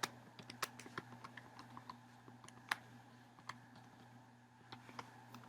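Faint typing on a computer keyboard: irregular keystrokes, pausing for about a second past the middle before resuming, over a steady low electrical hum.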